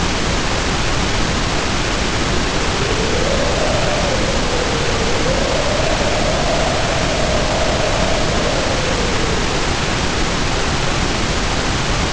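Heavy rain pouring steadily, with wind howling over it in a slow rise and fall of pitch.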